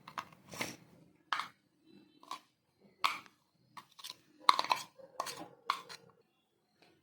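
Chopped corn, onion, chillies and spices being added to mashed boiled potato and mixed in a bowl: a run of irregular short scrapes and knocks, the loudest about four and a half seconds in.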